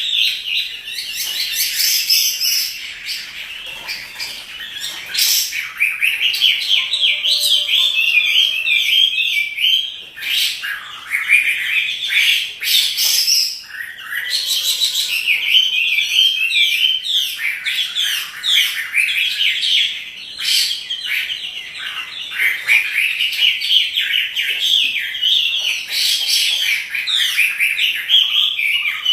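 Chinese hwamei singing a long, rapid, varied warbling song, with brief breaks about ten and fourteen seconds in.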